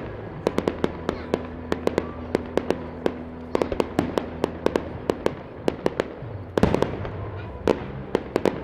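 Aerial fireworks shells bursting: an irregular string of sharp bangs, several a second, with the loudest bangs about three-quarters of the way through.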